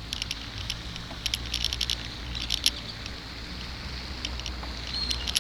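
Light, irregular clicking and rattling from a bicycle being ridden, some ticks coming in quick clusters, over a steady low rumble of wind on the microphone.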